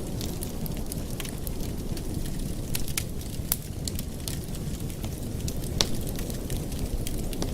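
Wood fire in a fireplace crackling, with irregular sharp pops, the loudest a little before six seconds in, over a steady low rushing of the flames.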